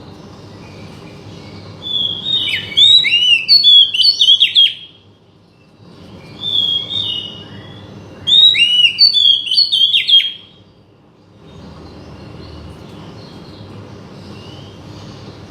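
Oriental magpie-robin (kacer) singing two loud phrases of fast, varied whistles and chirps, starting about two and six seconds in, over a steady low background noise. The song stops about ten and a half seconds in, leaving only the background noise.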